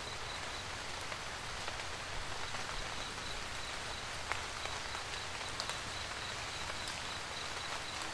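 Steady rain falling on a camper van roof, individual drops pattering as scattered light ticks over an even hiss. A faint, evenly pulsing high-pitched tone runs underneath.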